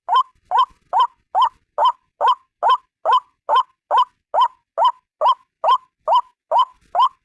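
White-breasted waterhen calling: a single bird repeats a short, rising 'kruak' note about two and a half times a second, in an even, unbroken series.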